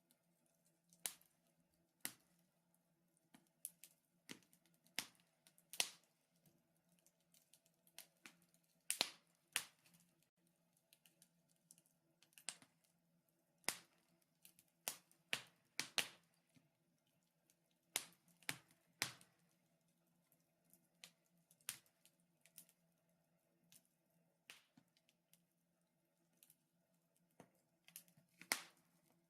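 Wood fire in a fireplace crackling: sharp, irregular pops and snaps, about one or two a second and sometimes in quick clusters, over a faint steady low hum.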